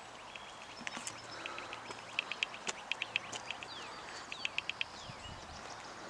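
Birds calling in the background: quick runs of short, sharp chips and a few brief falling whistles.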